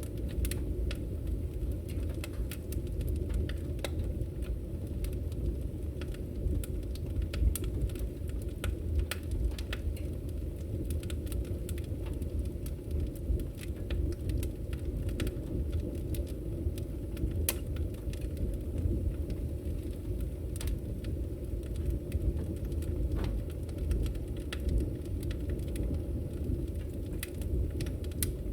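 Wood bonfire burning: frequent sharp crackles and pops of the burning wood, scattered irregularly over a steady low rumble.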